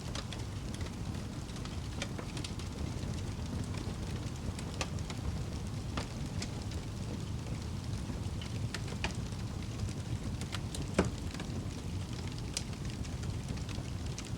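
Wood fire burning in a fireplace: a steady low rumble of the flames with scattered crackles and pops from the burning logs, one sharper snap about eleven seconds in.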